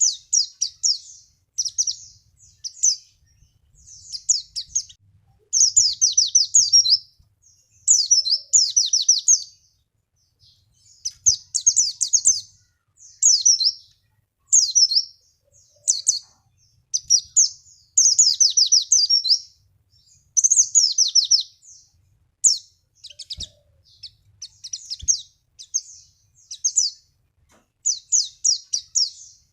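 White-eye (pleci) singing: quick, high-pitched twittering phrases of about a second each, repeated with short pauses. This is a lure song played to get a caged white-eye to answer and sing.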